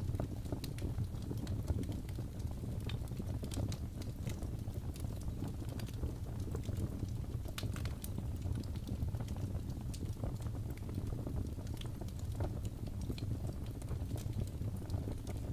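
Wood fire crackling in a fireplace: a steady low rumble of flames with scattered sharp pops and crackles.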